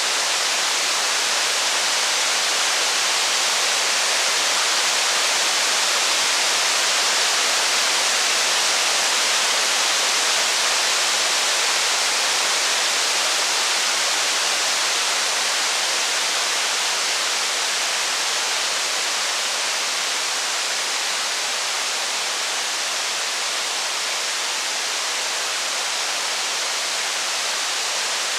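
Steady rain: an even rushing hiss with no thunder or crackles standing out.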